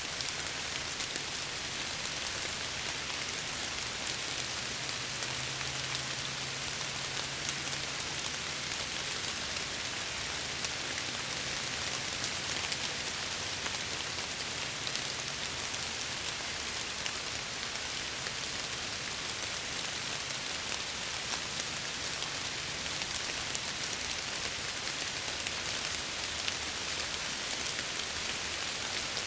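Steady rain beating against window glass, a dense even patter with many individual drops ticking through it. A faint low hum sits under the rain for a while in the first half.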